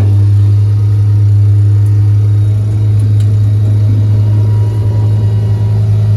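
Ford bucket truck's engine running at a steady raised idle with the PTO engaged, a constant low hum.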